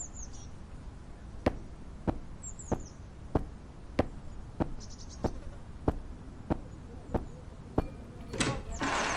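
Evenly paced footsteps, about eleven steps at a slow walking pace, over a faint outdoor background with a few bird chirps. Near the end comes a louder knock, and a door begins to creak open.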